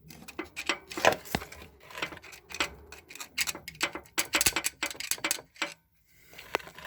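Irregular clicks and knocks of hand tools and parts being handled, several a second, with a brief break near six seconds.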